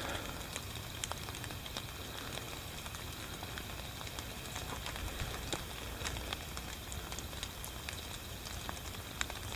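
Steady rain: an even hiss dotted with the ticks of individual drops.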